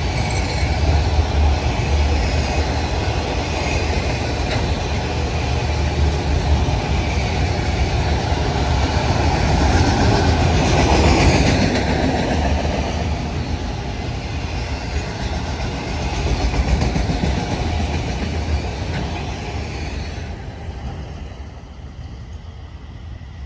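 Norfolk Southern freight train rolling past, its wheels clacking over the rail joints over a steady low rumble. The sound is loudest about halfway through and dies away near the end.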